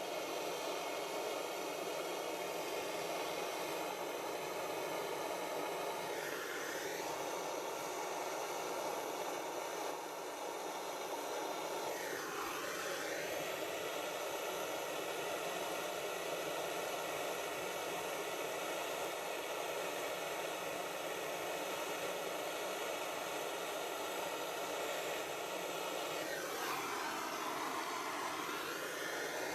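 Gas blow lamp burning with a steady hissing roar while it heats a silver-solder joint on a model exhaust manifold; the tone sweeps briefly three times, near 6 s, 12 s and in the last few seconds.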